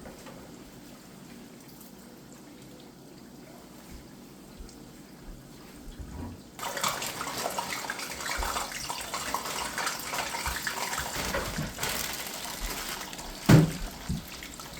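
Hot oil sizzling as cornflake-breaded chicken strips and fries deep-fry. It is faint at first and turns suddenly into loud, dense crackling about halfway through, with a single thump near the end.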